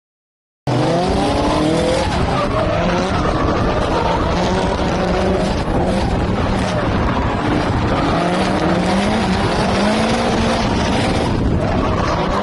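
Car engine revving up and down over squealing, skidding tyres, cutting in abruptly just under a second in.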